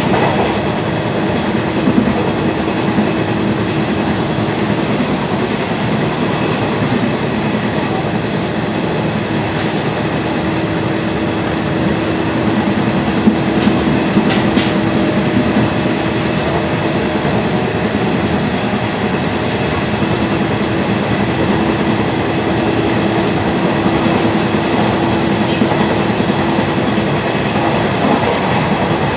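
Running noise of a Nishitetsu 2000 series electric train, heard inside the passenger car while it travels between stations: a steady rumble of wheels on the rails with a hum held throughout, and a brief clatter about halfway through.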